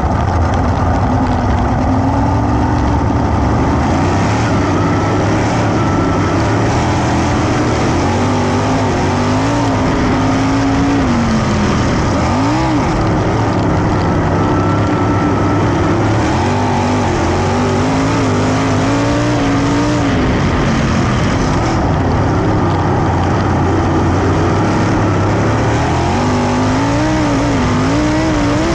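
410 sprint car engines racing on a dirt track. The engine note is loud and continuous, its pitch rising and falling again and again as the cars throttle through the turns and down the straights.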